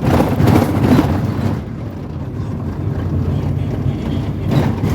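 Steady low rumble of a moving vehicle, with a louder rush of noise in the first second and a half and again briefly near the end.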